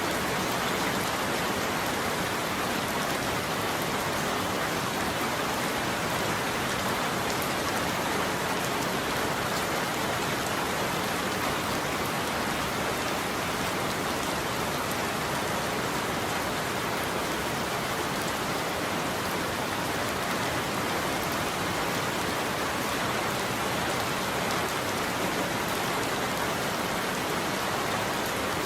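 Steady heavy rain falling on a roof, an even hiss with no thunder.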